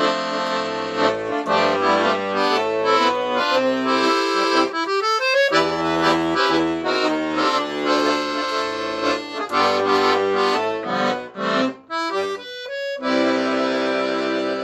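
Guerrini & Sons piano accordion playing a tune on its bassoon (single low reed) treble register, the right-hand melody over a pulsing left-hand bass and chord accompaniment, with a quick run of notes about five seconds in.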